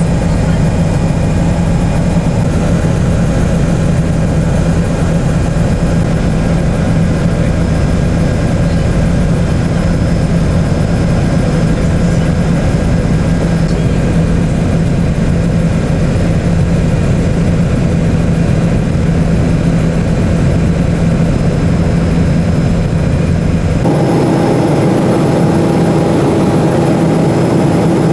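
Tour helicopter in flight, a loud steady drone of rotor and engine with a strong low hum. About 24 seconds in the sound changes abruptly: the deepest rumble falls away and a higher steady hum takes over.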